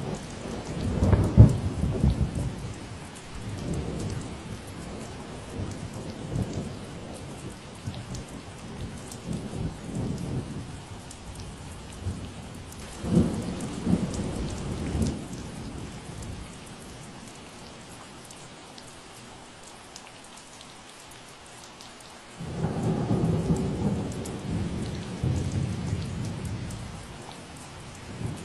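Steady rain falling, with low rolling rumbles of thunder: a loud one near the start, another around the middle, and a longer one starting suddenly near the end.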